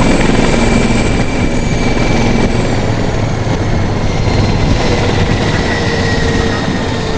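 Emergency medical helicopter running close by: rotor chop under a turbine whine that slowly drops in pitch, getting a little quieter near the end.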